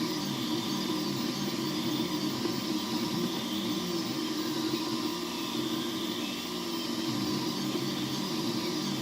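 3D printer printing: its stepper motors hum in short tones that keep jumping in pitch as the head moves, over a steady fan whir.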